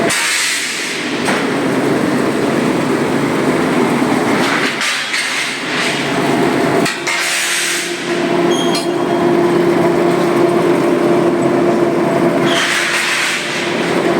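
Heavy industrial machinery running loudly with a steady hum and a dense roar, broken by occasional sharp metallic clanks and knocks, twice early on and once about halfway through.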